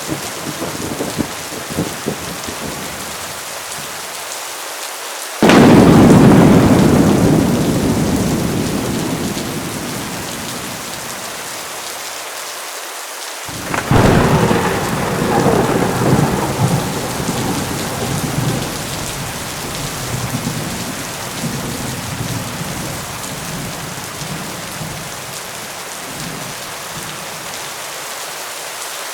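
Steady heavy rain with two thunderclaps: a sharp, loud crack about five seconds in that rumbles away over several seconds, and a second clap with a longer rolling rumble about halfway through.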